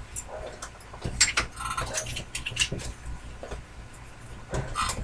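Scattered small clicks, taps and short squeaks of hand work as a small wood screw is driven in.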